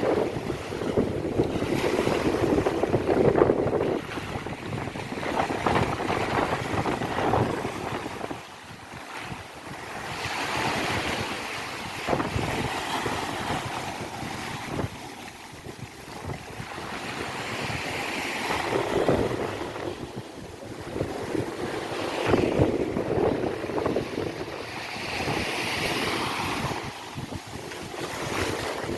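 Sea waves breaking and washing up a beach, the surf swelling and fading every few seconds, with wind buffeting the microphone.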